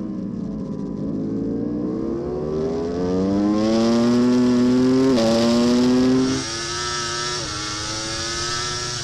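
Racing superbike engine heard onboard, rising steadily in pitch under hard acceleration, with quick gearshift steps about five seconds in and again about two seconds later. It is loudest in the middle, with wind rush over the bike.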